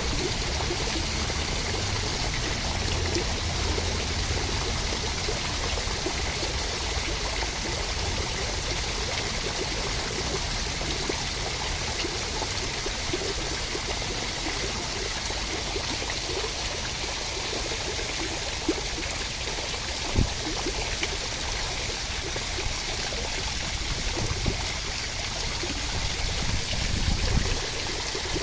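Steady rain, an even hiss of falling water, with a few brief louder taps, the clearest about twenty seconds in.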